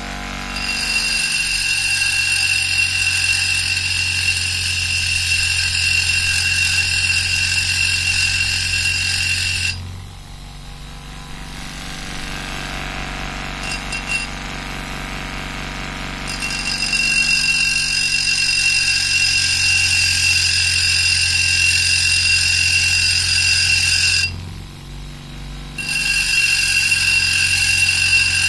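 Small hand-held motor grinding a blue opal with a steady high-pitched whine, easing off for several seconds about a third of the way in and briefly again near the end.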